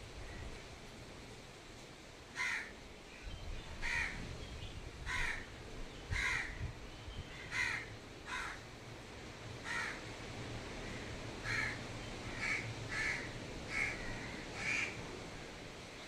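A bird calling repeatedly: about thirteen short calls, roughly one a second, beginning a couple of seconds in and stopping shortly before the end.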